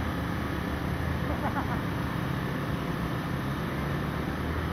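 Honda Grom's 125 cc single-cylinder four-stroke engine running at low, fairly steady revs as the bike is ridden slowly through tight turns.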